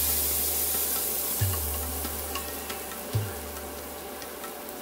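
Taro pieces sizzling in hot oil in a stainless-steel pan. The sizzle is loudest in the first half, as lemon juice goes in, and light taps of a wooden stirrer on the pan follow. Background music plays under it, with a low bass note about every two seconds.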